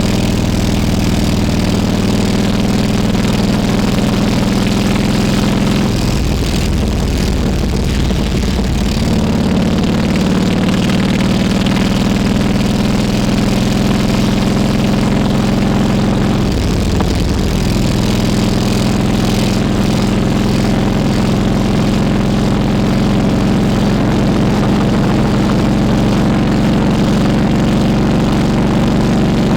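Harley-Davidson Road King Classic V-twin engine running steadily under way, loud and close. Its engine note breaks up and changes twice, about six seconds in and again about seventeen seconds in.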